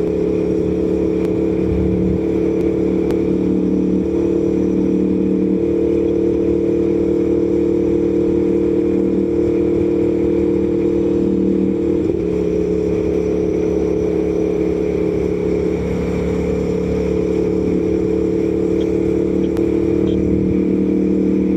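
Aprilia Tuono V4 1100 Factory's V4 engine running at a steady cruise, heard from inside the rider's helmet. The engine note holds nearly constant, easing off slightly about sixteen seconds in.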